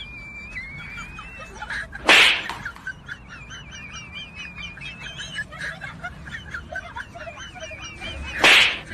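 Birds chirping and twittering continuously, interrupted twice by a loud sudden burst of noise, about two seconds in and again near the end.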